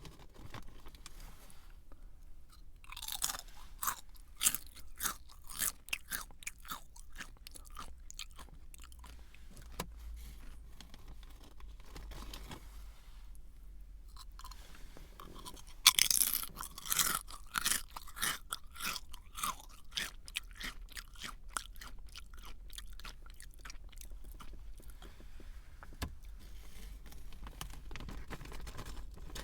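Someone biting into a crunchy snack and chewing it with the mouth close to the microphone. There are two bites, about three seconds in and about sixteen seconds in, the second louder. Each is followed by a run of quick crunches that grow softer and sparser as the snack is chewed down.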